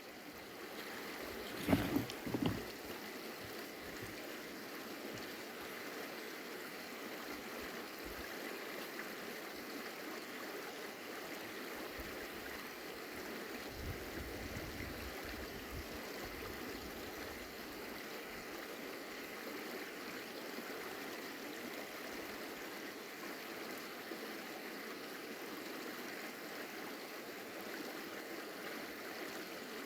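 A stream running steadily, an even rush of water. A couple of short knocks come about two seconds in.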